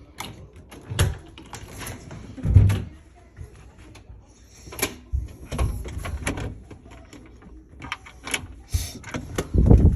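A house window being unlatched and slid open: a run of clicks and knocks from the latch and frame, with several heavy bumps, the loudest about two and a half seconds in and near the end.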